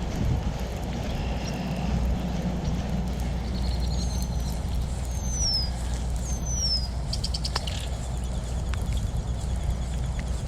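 Wind buffeting the microphone in a steady low rumble, with a songbird calling over it: three short falling whistles in the middle, then a quick trill of rapid notes.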